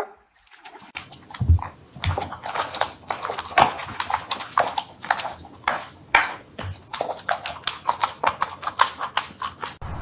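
Rapid, irregular clicking and tapping, several sharp taps a second, starting about a second in.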